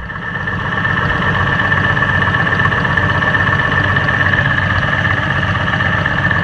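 Detroit Diesel 71-series two-stroke diesel running steadily at idle, with a steady high whine over its even rumble.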